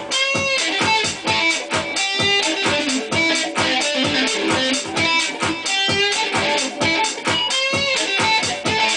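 Guitar music: a melodic line with wavering, bent notes over a steady beat.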